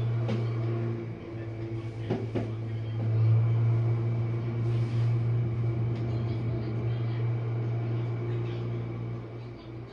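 Jenn-Air dishwasher running its main wash, the pump motor giving a steady low hum, with a couple of faint clicks about two seconds in.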